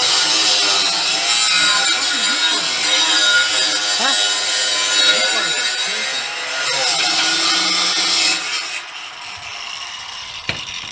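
Power tool cutting through metal exhaust pipe: a continuous harsh grinding noise with wavering squeals, which stops about eight and a half seconds in.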